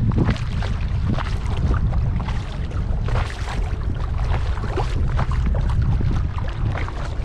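Kayak paddling: the paddle blades dipping and splashing, with water dripping and trickling off them, over a steady low rumble.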